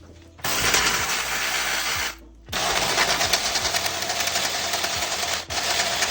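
Power ratchet running in bursts with a fast rattling buzz, stopping briefly about two seconds in and again near the end, as it undoes bolts to take out a car battery.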